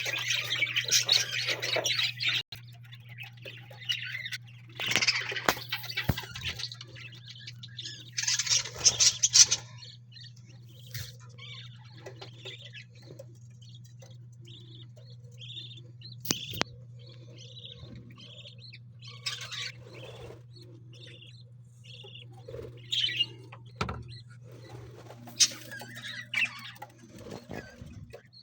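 A flock of ornamental aviary birds chirping and chattering. There are loud bursts of chatter during the first ten seconds, then scattered single chirps. A steady low hum runs underneath.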